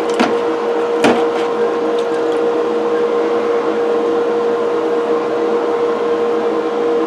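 Steady hum of a small electric motor or fan, holding one fixed tone, with a single sharp click about a second in.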